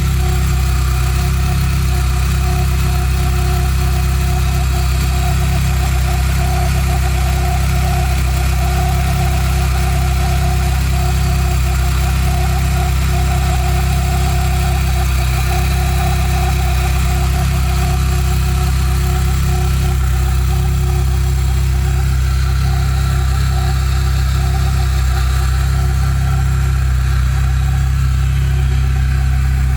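Volkswagen Pointer engine idling steadily, with a steady whine over the engine note, a noise the owner finds strange.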